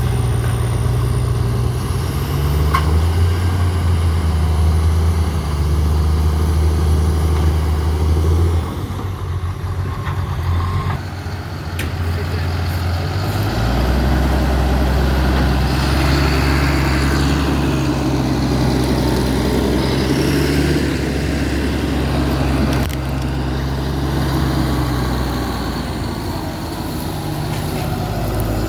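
John Deere log skidder's diesel engine working under load while levelling stump holes, its engine speed stepping up and down several times.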